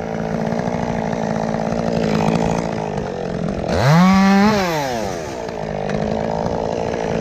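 Chainsaw running steadily at high revs. About four seconds in, a second, louder chainsaw revs up from low, holds for half a second and drops back.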